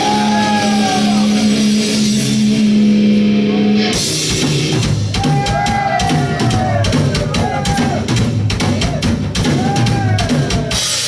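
Live rock band playing loud: a held chord rings for about four seconds, then the drum kit comes in with rapid hits under the band.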